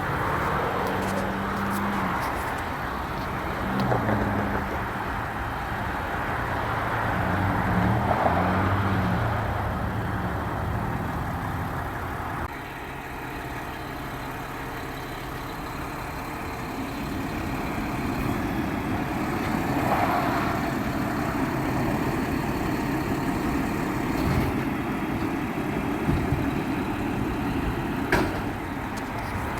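Garbage truck engine running, its pitch rising and falling through the first dozen seconds. It then drops back, and a broader rumble builds from about seventeen seconds in.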